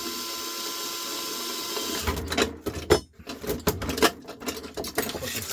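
A small power tool's motor whirs steadily for about two seconds, then stops, followed by irregular clicks and knocks of screws and fixture parts being handled.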